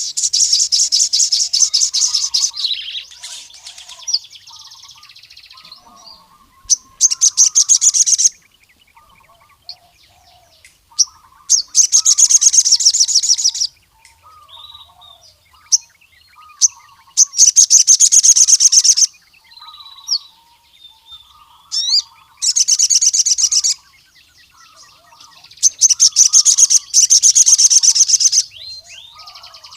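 Male crimson sunbird (sogon) singing: loud bursts of very rapid, high trilling, each lasting one to two and a half seconds and repeated about six times, with softer, lower chirps in between. This is the male's territorial song, directed at a rival male.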